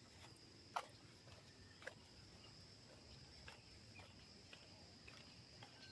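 Faint footsteps on a road, two clearer steps about a second apart near the start and softer ones after, over a steady high-pitched hum.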